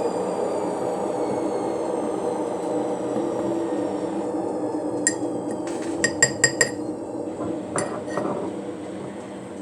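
A metal utensil clinking against a ceramic mug: a quick run of about five ringing clinks around the middle and two more soon after, as an Oreo is pushed into the batter. A steady whirring hum runs underneath and fades near the end.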